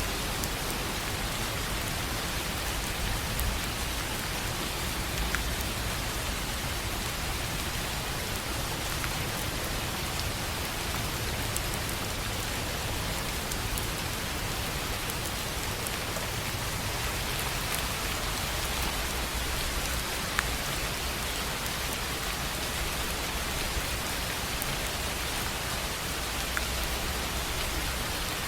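Steady rain falling on a tin roof: an even hiss of many drops, with a few louder single drop ticks standing out now and then.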